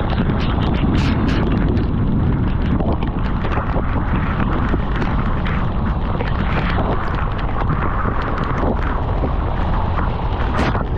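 Heavy wind buffeting on the microphone of a motorcycle riding through typhoon rain, a loud steady rumble with road and rain noise. A few short sharp taps stand out, one near the end.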